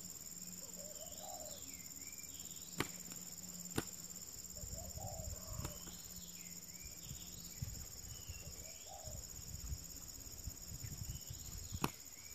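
Steady high buzzing of insects, with repeated short chirping bird calls over it. A bird flaps and scuffles on loose dirt, giving low rustling and a few sharp clicks.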